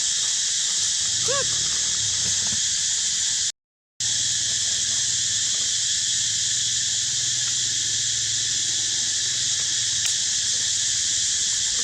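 Steady high-pitched drone of a cicada chorus, with one short squeal from a macaque about a second in. The sound drops out completely for about half a second a little over three seconds in.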